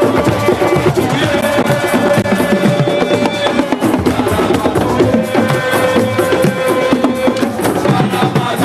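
Music with fast, dense drumming, and a held tone that comes and goes above the drums.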